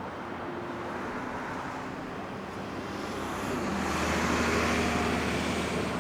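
Jet airliner engines: a steady rumble and hiss that swells louder about three seconds in and eases slightly near the end.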